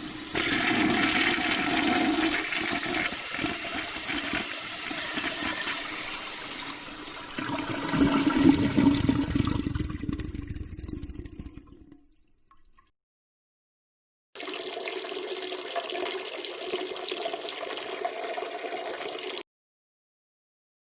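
Rushing water that swells about eight seconds in and then drains away to nothing. After a short silence, a second, steadier rush of water lasts about five seconds and cuts off suddenly.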